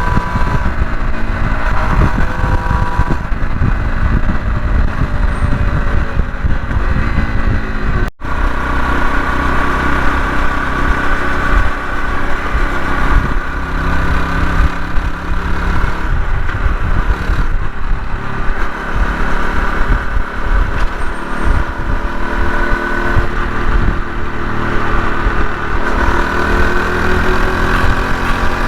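Honda CT125 Hunter Cub's small single-cylinder engine running on the road, its pitch rising and falling with speed, under heavy wind buffeting on the microphone. The sound drops out for an instant about eight seconds in.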